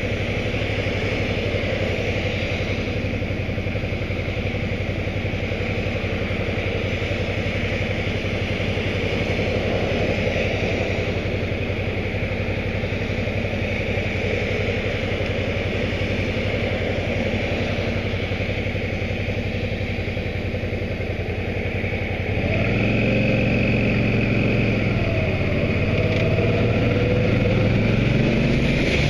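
Motorcycle engine running steadily on the move; about three-quarters of the way through it gets louder and its pitch climbs as the bike accelerates.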